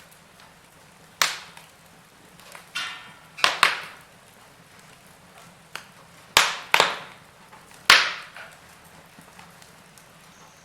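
Wood fire in a fireplace crackling: sharp pops and cracks at irregular intervals, a few close together, over a faint steady background.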